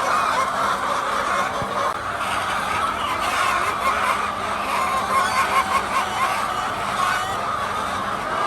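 Many laying hens clucking at once, their overlapping calls forming a steady chatter.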